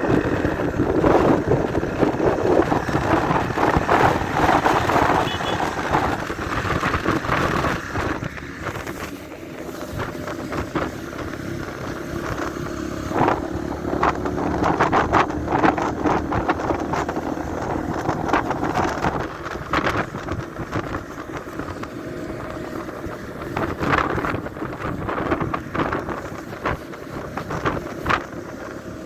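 Motorcycle engine running steadily while riding, with wind buffeting the microphone in frequent short gusts.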